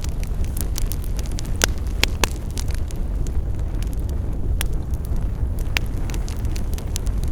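Wood campfire burning, crackling and popping steadily, with a handful of louder sharp pops about one and a half, two, four and a half and six seconds in. A steady low rumble lies underneath.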